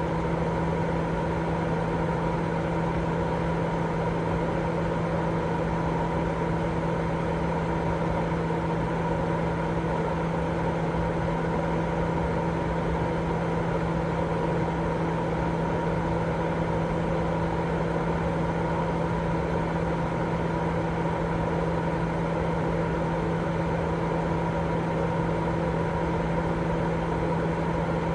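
Continuous white-noise sleep sound: an even, unchanging hiss with a steady low hum and a fainter higher tone running through it.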